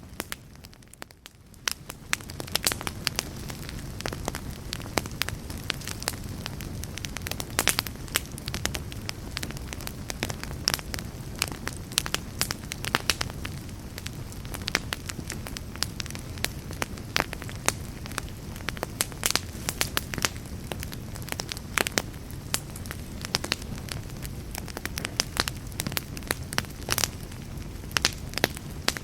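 Fireplace fire crackling, with frequent sharp pops over a steady low rumble of flames. The sound dips briefly about a second in, then comes back.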